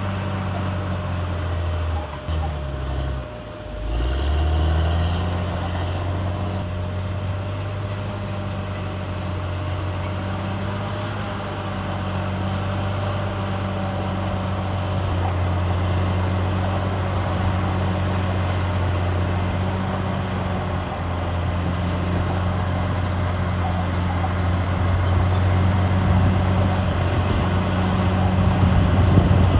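CAT D6R bulldozer's diesel engine running steadily. Its pitch sags and loudness drops briefly about three seconds in, then it picks back up and runs a little louder toward the end.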